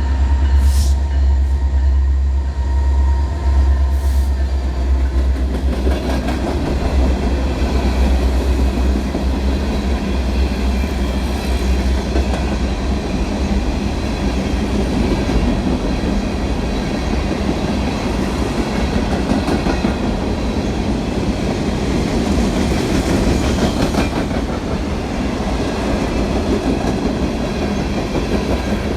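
Union Pacific train running on the rails: a heavy low rumble for the first several seconds, then steady wheel-on-rail noise with some clickety-clack.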